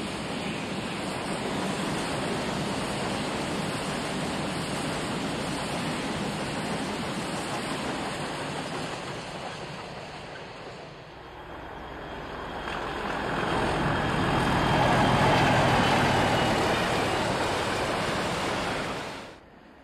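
Diesel-hauled freight train rolling past on jointed track, a steady rumble of wagon wheels. After a break, a Class 37 diesel locomotive hauling tank wagons comes by, engine and wheels growing louder to a peak. The sound cuts off suddenly near the end.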